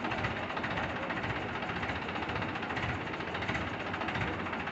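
An engine running steadily at idle, such as a truck or crane engine at work during heavy machinery loading.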